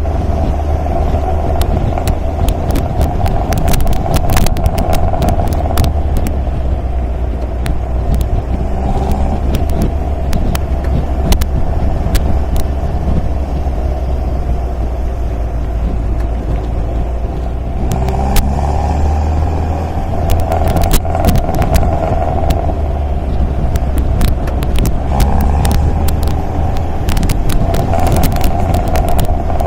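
MGA roadster's four-cylinder engine and exhaust running while driving, a steady loud drone whose note shifts up about 18 seconds in and again near 25 seconds, with many short clicks and knocks over it.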